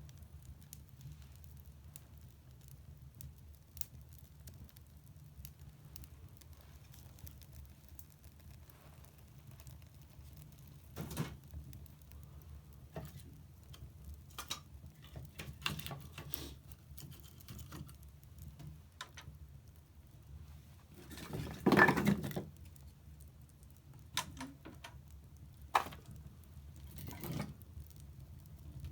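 Wood fire burning in a fireplace: a low steady rumble with scattered crackles and sharp pops, and one louder crackling burst lasting about a second, roughly two-thirds of the way through.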